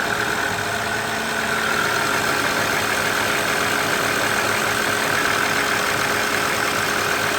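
2008 Honda Odyssey's V6 engine idling steadily with a constant whine, running with its spool valve gaskets freshly replaced.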